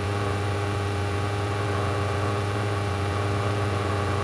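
Cessna 172 Skyhawk's engine and propeller droning steadily in flight, with a constant hiss.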